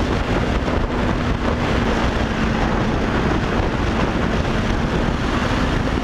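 Riding on a 2015 Yamaha YZF-R3: wind rushing over the microphone, with the bike's 321 cc parallel-twin engine humming steadily underneath at a cruising pace.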